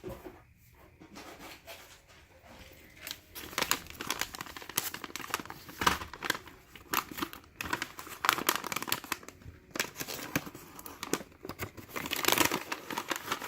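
Packaging being handled and opened by hand: many short crinkling rustles, starting about three seconds in.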